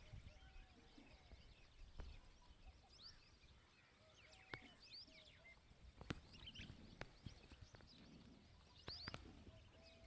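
Faint, scattered chirps of small birds, with a few sharp clicks or taps over a low rumble.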